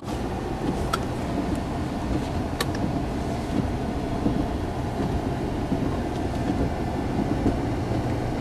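Steady engine and road rumble heard inside a car's cabin while driving, with a couple of sharp clicks about one second and two and a half seconds in.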